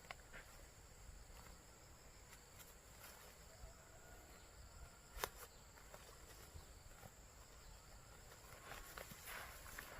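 Near silence: faint outdoor ambience with a few soft ticks and one sharp click about five seconds in.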